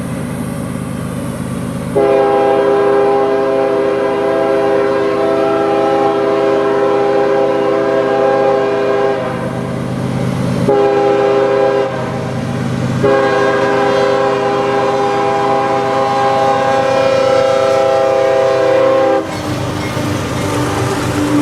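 Freight locomotive's multi-chime air horn sounding a chord: a long blast, a short one and another long blast, over the rumble of the passing train.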